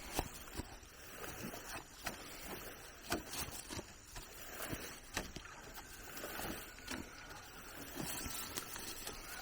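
Irregular light knocks and clicks, a few a second, over a steady rustling noise.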